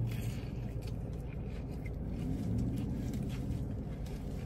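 A person biting into and chewing a fried-chicken sandwich with a soft bun and slaw, faint chewing sounds over the steady low hum of a car.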